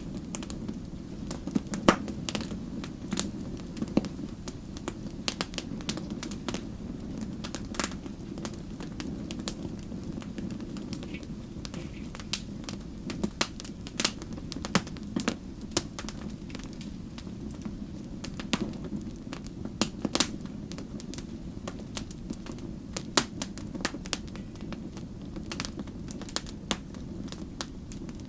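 Wood campfire burning, with a low steady rumble of flames and frequent sharp, irregular crackles and pops from the burning wood.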